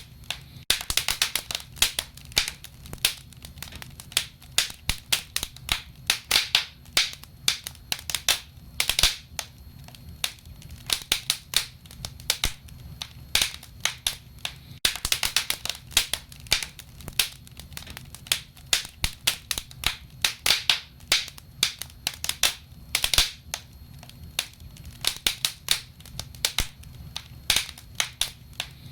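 Wood fire burning in a stove, logs crackling and popping in quick, irregular snaps over a low steady rumble of the flames.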